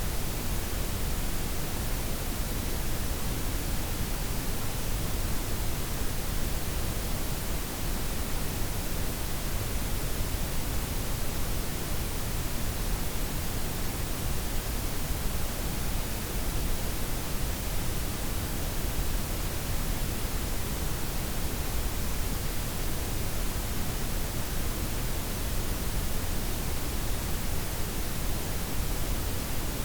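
Steady synthetic noise blend of white, pink and brown noise, an even, unchanging hiss with a strong low rumble underneath.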